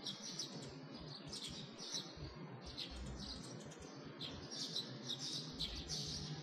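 Small birds chirping in quick repeated short calls, several a second, over a faint background hiss.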